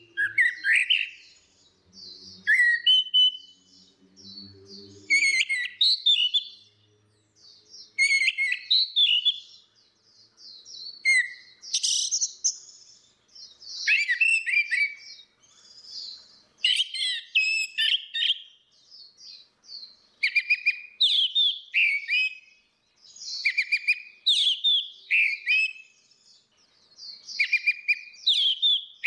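Orange-headed thrush singing: short bursts of fast, varied whistled and chirping phrases, one every second or two.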